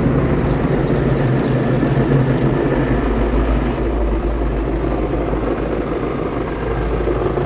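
Istobal Flex5 automatic car wash running over a car: spinning wash brushes and machine motors, a loud, steady rumble with a low hum.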